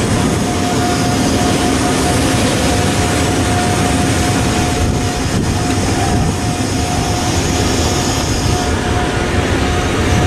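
A passenger train of Corail-type coaches rolling slowly past at close range, with steady wheel and rail rumble and a steady whining tone over it.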